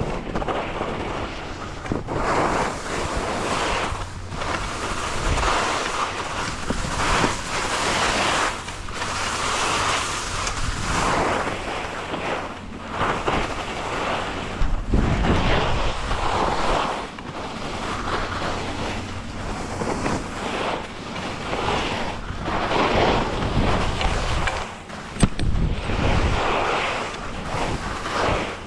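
Wind rushing over the microphone while skiing downhill, with the hiss of skis on snow swelling and fading every second or two. One sharp knock comes near the end.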